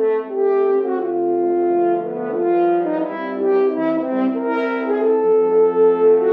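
Brass instruments playing a slow piece in several parts, with held notes moving together in changing chords.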